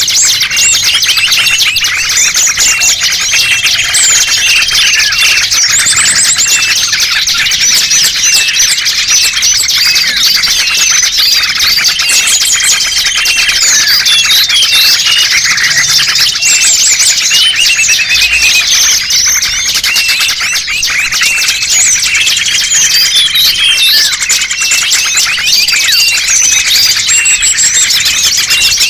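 Dense chorus of many small birds calling at once, with overlapping chirps, trills and short whistled notes that never break off. It is a lure recording of small-bird calls (pikat), played to draw small wild birds in.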